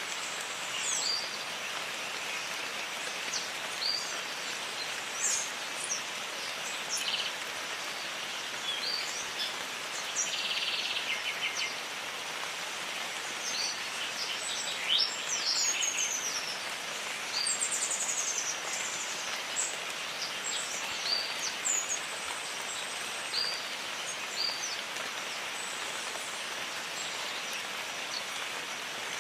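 Steady rainfall hissing, with many birds chirping in short, quick calls over it, busiest in the first two-thirds.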